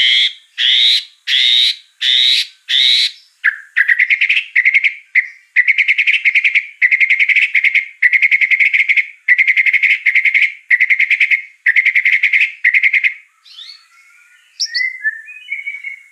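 White-rumped shama (murai batu) singing in repeated short phrases: first a string of quick sweeping notes, then from about three seconds in a long run of fast rattling trills, each under a second and repeated over and over, and after a brief pause near the end a few varied whistled notes.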